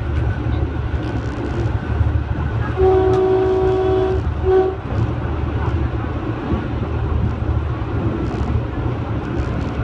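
Local passenger train running with a steady low rumble. Its horn sounds one long blast about three seconds in, followed right after by a short toot.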